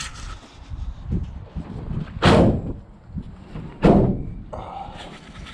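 Two heavy slams about a second and a half apart, with low rumbling between them: a van's doors being shut.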